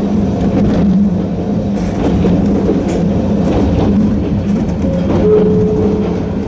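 Sangi Railway Hokusei Line narrow-gauge electric train running on the rails, with the steady hum of its nose-suspended traction motors under the wheel noise. A short steady tone sounds about five seconds in.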